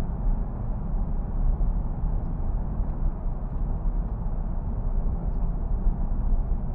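Steady road and engine noise heard inside a car's cabin while driving through a road tunnel: an even low rumble with no distinct events.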